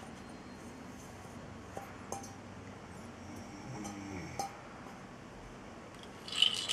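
A few faint taps, then a sharp clink of a hard object near the end.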